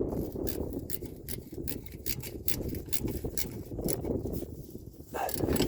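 Ratchet wrench clicking in quick strokes, tightening the retainer bolt on a newly fitted transmission vacuum modulator.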